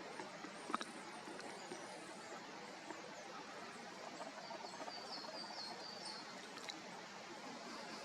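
A small bird calling: a quick run of about eight short high notes, a little over a second long, in the middle, over a steady outdoor hiss, with a single sharp click near the start.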